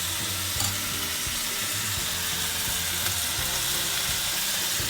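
Chicken pieces sizzling in hot oil in a pan: a steady frying hiss with a few small crackles.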